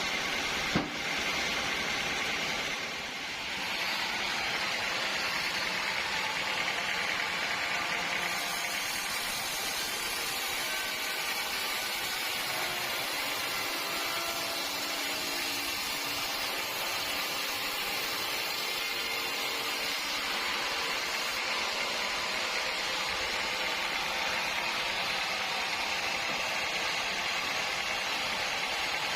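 Sawmill machinery running steadily with an even hiss-like noise, with a single short knock about a second in.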